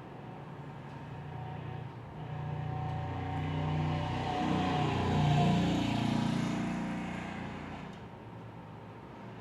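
A motor vehicle passing by: its engine noise swells over a few seconds, is loudest about halfway through, then fades away.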